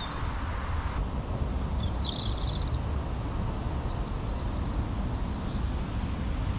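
A songbird gives a short rapid trill about two seconds in, with faint chirps a little later, over a steady low outdoor rumble.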